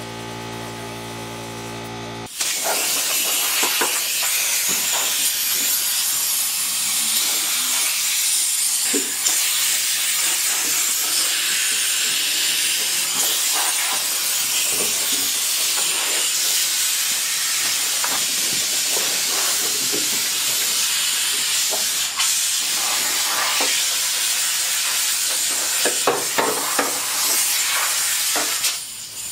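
A power sander (a sanding 'gun') grinding surface rust off the car's engine-bay sheet metal down to bare metal: a loud, steady hiss that starts suddenly about two seconds in. A steady hum comes before it, and a few knocks sound near the end.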